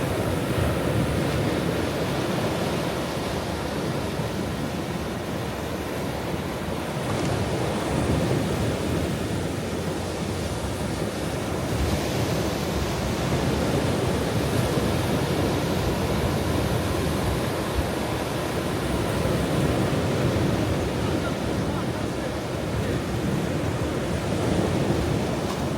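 Ocean waves breaking and washing on a shore, a steady roar of surf that swells and eases every few seconds.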